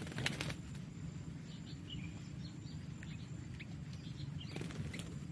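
Sooty-headed bulbuls (kutilang) fighting: short, scattered chirps and calls, with bursts of wing-flapping and scuffling about half a second in and again near the end.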